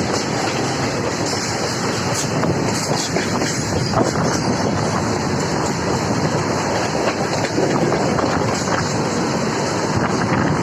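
Tebhaga Express passenger train running at speed: a steady rumble of wheels on the rails, with scattered sharp clicks from the rail joints.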